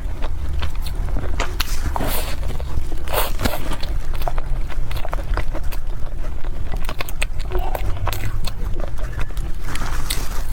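Close-miked eating sounds: biting into and chewing Chinese pastries, with many small crisp clicks and crackles over a steady low rumble.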